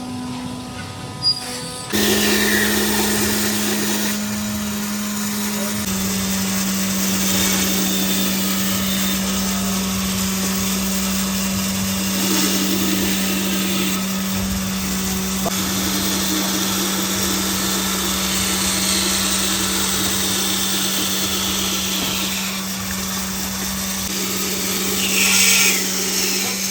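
Electric power tool running steadily, its motor giving a constant hum that shifts slightly in pitch about six seconds in.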